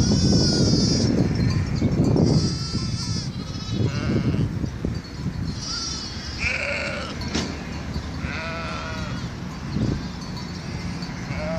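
Several sheep bleating in turn, about six calls of differing pitch: some high and wavering, others lower and shorter. A low rumbling noise lies under the first few seconds.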